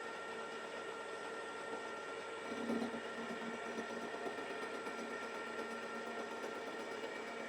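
Deckel FP2 milling machine running, a steady machine hum and whine made of several fixed tones over a light hiss, with a brief louder bump about two and a half seconds in.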